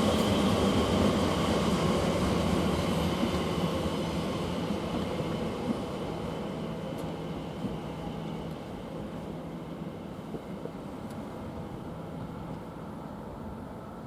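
Elizabeth line Class 345 electric train running through the station, its rumble and faint steady hum slowly fading as it moves away.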